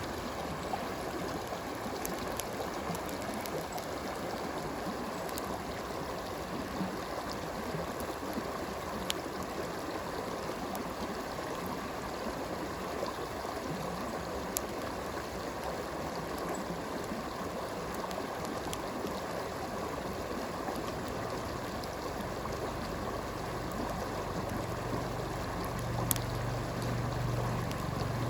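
Steady flowing stream water, with a few sharp pops from a crackling campfire scattered through it. A low rumble comes up over the last several seconds.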